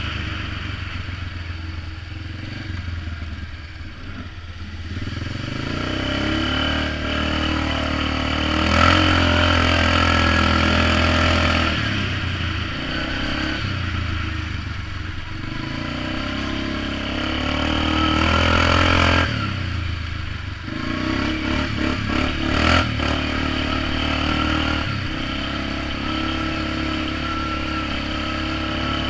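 Polaris Magnum 425 ATV's single-cylinder four-stroke engine running through a DG Performance RCM-II aftermarket muffler while riding. The exhaust note rises and falls repeatedly as the throttle is opened and eased off, with louder pulls a few seconds apart.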